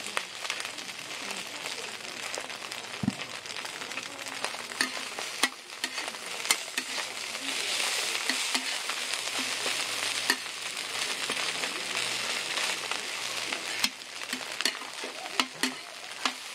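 Egg and glass noodles sizzling on a flat griddle, with a metal spatula scraping and clicking against the plate as the egg is pushed and gathered. The sizzle swells louder for several seconds in the middle.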